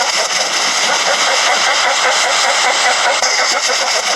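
Elephant seal calling: a loud, continuous, rapidly pulsed call with no breaks.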